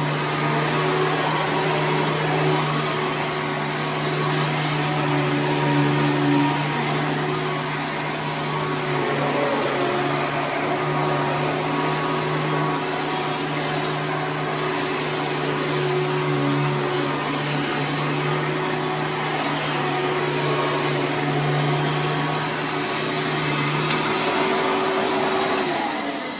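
Hoover Preferred upright vacuum cleaner running steadily, its motor humming under a rush of air; near the end it is switched off and the motor winds down.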